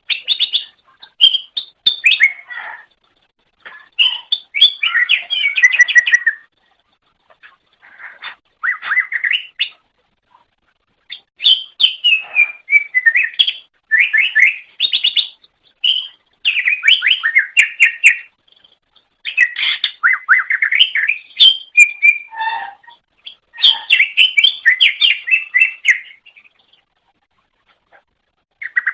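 Green leafbird (cucak ijo) singing: loud phrases of rapid chattering notes and trills, each a second or two long, separated by short pauses.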